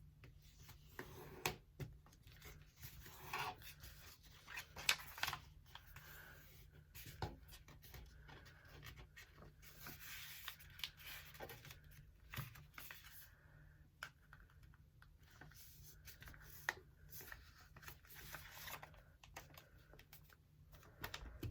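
A sheet of paper rustling and being creased by hand while a paper airplane's wings are folded down: faint, irregular crinkles, rubs and short ticks of paper, a few sharper ones now and then.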